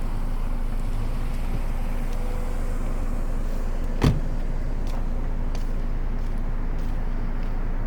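Car running steadily with a low, even hum; a single sharp click sounds about four seconds in, with a few faint ticks after it.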